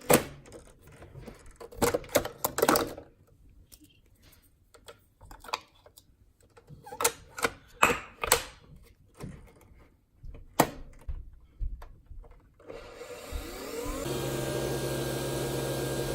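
Scattered knocks and clicks of things being handled. About three-quarters of the way through, a small electric appliance motor starts up and runs with a steady hum and a faint whine.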